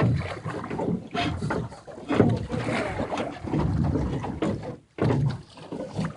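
Small boat on a river, with water splashing and sloshing against the hull: an uneven noise that comes and goes, with a brief lull about five seconds in.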